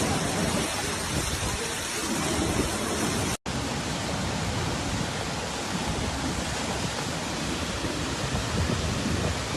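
Steady rushing noise of floodwater and torrential rain, even and unbroken apart from a brief cut about a third of the way in.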